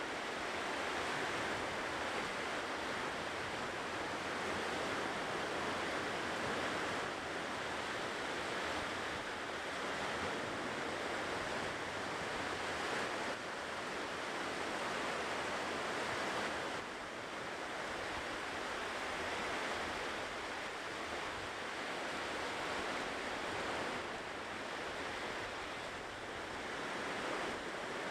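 Ocean surf washing continuously onto the shore, a steady rush that swells and eases gently every several seconds.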